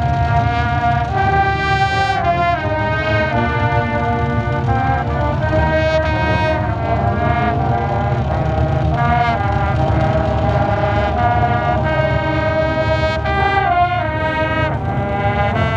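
Marching band brass playing slow, sustained chords, each held a second or two before moving to the next.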